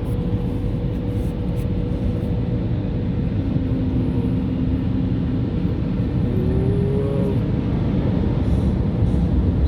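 Steady low rumble heard from inside a car's cabin as the car moves through an automatic car wash, with no distinct strokes or pauses.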